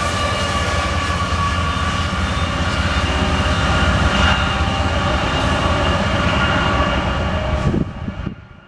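Fast BNSF grain train of covered hopper cars running past: a steady rumble of wheels on the rails. The whine of a diesel locomotive that has just gone by fades over the first few seconds. The sound fades out quickly near the end.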